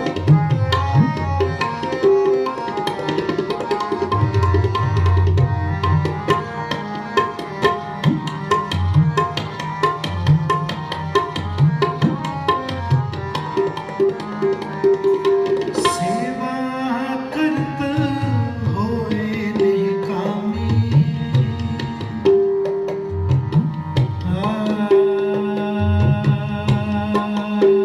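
Tabla played in a fast, dense rhythm under a sustained melody line, with gliding low drum tones about two-thirds of the way in.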